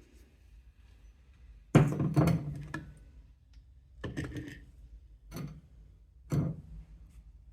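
Tools or metal engine parts being handled on a workbench: a short burst of clatter about two seconds in, then three separate knocks a second or so apart.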